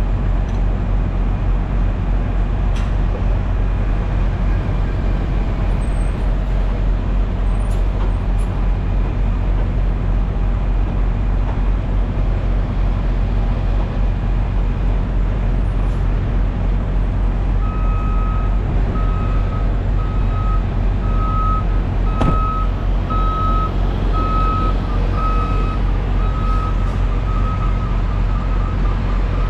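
Semi truck's diesel engine running steadily. From a little over halfway in, a backup alarm beeps at an even pace, close to once a second.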